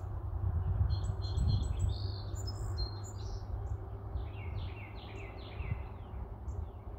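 Songbirds chirping: a flurry of high chirps from about a second in, then a run of quick downward-sliding notes about four seconds in, over a steady low rumble.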